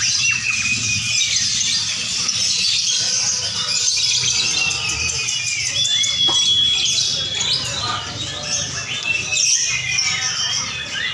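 Many lovebirds chattering and trilling at once in dense, high-pitched bursts, with one long held note about six seconds in, over a low murmur of voices.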